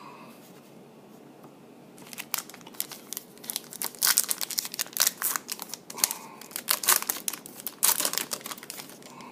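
A football trading-card pack wrapper being torn open and crinkled by hand, as an irregular run of sharp crackles. It starts about two seconds in, keeps going for about six seconds, and the loudest bursts come in the second half.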